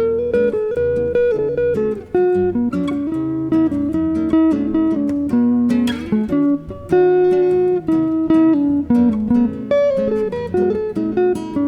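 Guitar duo music: a nylon-string flamenco guitar and a Telecaster electric guitar playing a jazz piece, with single plucked notes and chords.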